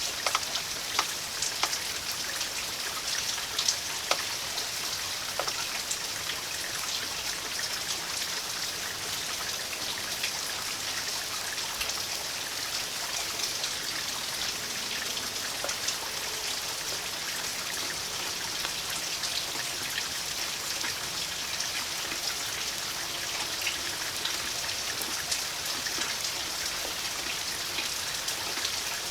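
Steady rain falling, with many individual drops ticking sharply against nearby surfaces.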